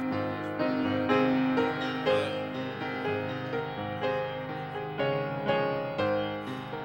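Piano music: a slow instrumental introduction to a gospel song, with chords struck about every half second over low bass notes.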